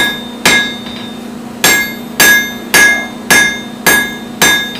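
Blacksmith's hammer striking metal on an anvil, about eight ringing blows at roughly two a second with one short pause, each ring fading before the next. A steady hum, plausibly the electric forge blower, runs underneath.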